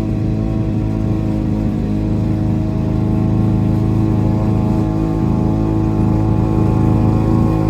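Lawn-Boy two-stroke push mower engine running steadily at speed, getting slightly louder about three seconds in.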